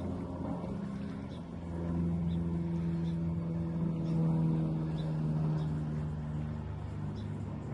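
A motor's steady low drone, swelling about two seconds in and easing off near the end.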